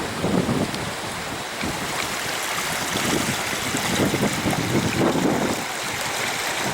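A fast mountain river rushing over stones, a steady rush of water noise, with wind buffeting the microphone at times, in low rumbles near the start and again from about three seconds in.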